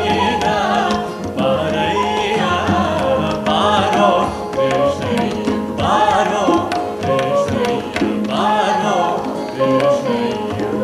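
Live fusion band playing a Kannada devotional song: singing over tabla, drum kit, guitar and flute.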